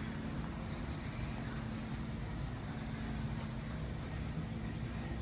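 Steady low mechanical hum with a faint held tone, unchanging throughout.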